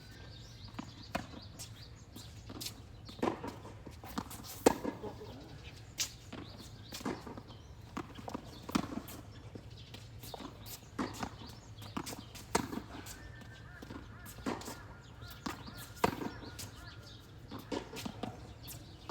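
Tennis rally: a steady back-and-forth of sharp pops from racket strings hitting the ball and the ball bouncing on the court, about one every second, some louder than others.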